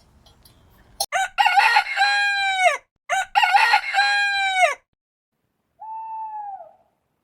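Rooster crowing twice, each crow a long call that ends in a held tone falling away, followed near the end by a quieter, shorter single-tone call.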